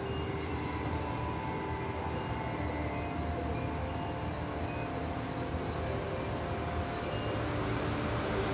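Kaohsiung Metro Red Line train running, a steady low rumble with faint, brief whining tones that come and go.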